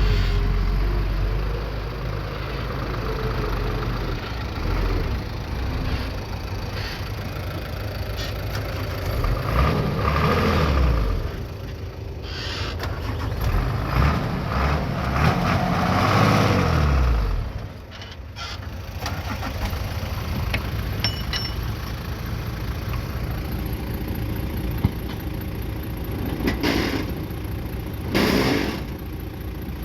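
Bulldozer's diesel engine running and working, its pitch rising and falling as it revs up and down under load several times. It drops off suddenly about two-thirds of the way through, then carries on running more evenly.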